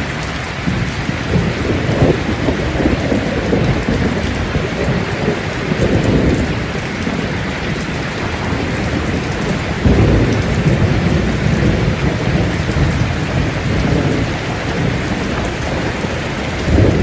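Steady rain falling, with thunder rumbling low and swelling several times.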